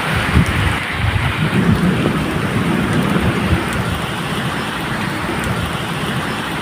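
Medium rain falling steadily, with thunder rumbling low underneath, strongest in the first few seconds.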